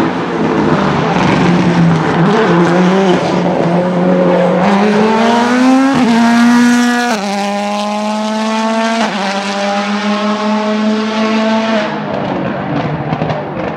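Ford Fiesta WRC Plus rally car's turbocharged 1.6-litre four-cylinder engine accelerating hard through the gears: the pitch climbs, drops at quick upshifts about six, seven and nine seconds in, and climbs again before fading near the end.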